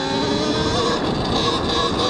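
Talaria X3 electric dirt bike's motor and drivetrain whining under way, with its pitch easing slightly after climbing as the bike speeds up. Heavy wind rumble on the helmet mic sits underneath.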